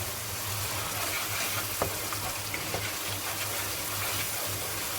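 Chicken keema with curry powder and a little added water sizzling and bubbling in a wok, a steady hiss with a few small pops.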